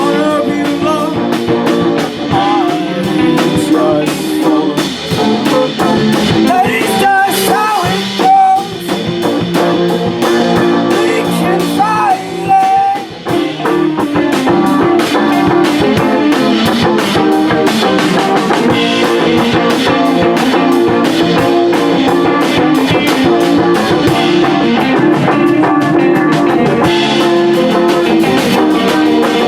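Live rock band playing, with guitar and a drum kit, and a few held, wavering melody notes around the middle.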